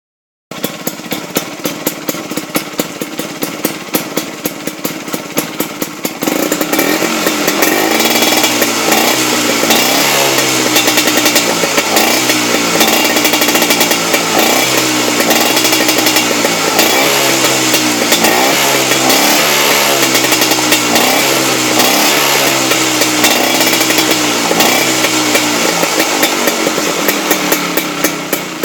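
Vespa scooter running on a RIZZ racing exhaust. It idles with a regular popping beat, then from about six seconds in it is revved again and again, pitch rising and falling, before settling back to idle near the end.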